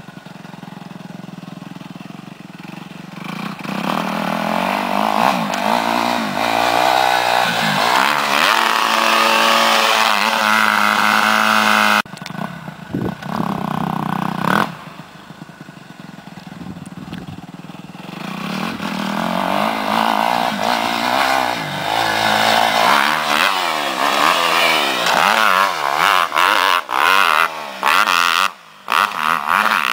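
Dirt bike engine revving and accelerating hard, its pitch climbing. It cuts off abruptly about twelve seconds in, builds again in a second climb, then ends in short, choppy throttle bursts.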